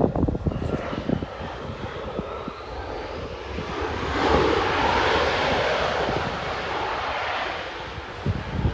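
Jet airliner passing overhead: engine noise swells to a peak a little before halfway through, holds, then eases off. Wind buffets the microphone at the start.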